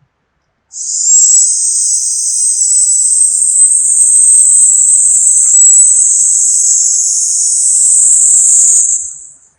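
A person's long, steady sibilant 'sssss' exhaled through the teeth: the qigong healing sound for the lungs and the metal element, used to purge them. It starts about a second in, holds for about eight seconds and fades out at the end of the breath.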